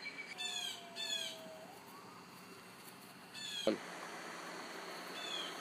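Short, high animal calls that slide downward in pitch: two near the start, a louder one about three and a half seconds in, and two faint ones near the end.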